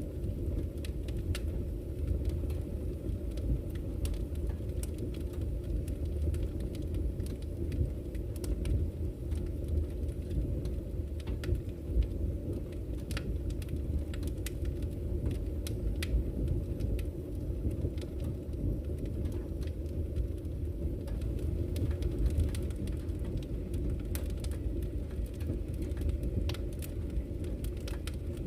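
Campfire crackling, with irregular sharp pops and snaps scattered throughout, over a steady low rush of flowing river water.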